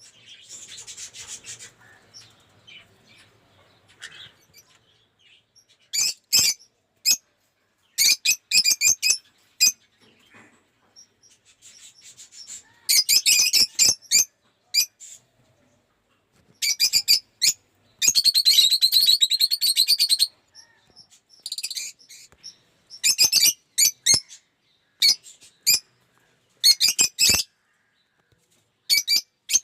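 Lovebirds chattering and screeching in short, shrill bouts, on and off, with one longer bout of about three seconds past the middle.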